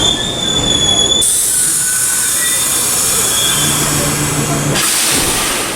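Vintage subway train running on the track, its wheels squealing against the rail in the first second, then a steady high hiss with a brief low hum near the end.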